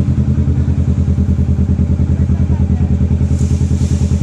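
Motorcycle engine running steadily at low revs, with an even pulsing beat of about ten pulses a second. A brief hiss comes in about three seconds in.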